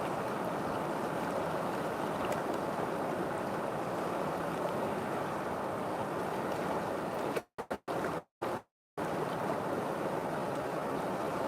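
River water rushing in a steady, even flow. About seven and a half seconds in, the sound cuts out to dead silence several times in quick succession for about a second and a half, then resumes.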